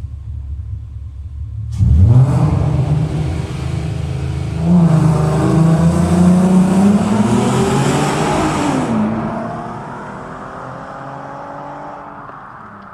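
Audi TT 3.2 VR6 engine with a Scorpion exhaust and induction kit launching hard: a low rumble jumps suddenly to a loud rising engine note about two seconds in, surges again and keeps climbing under full acceleration, then falls away and fades as the car pulls off.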